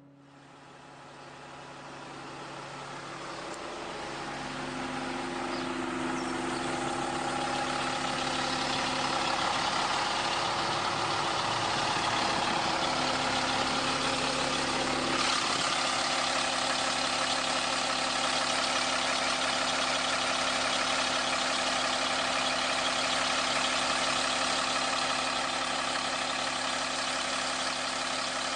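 Alexander Dennis Enviro 200 bus's diesel engine idling steadily. The sound swells up over the first several seconds, then holds even, with a slight change in its low note about halfway through.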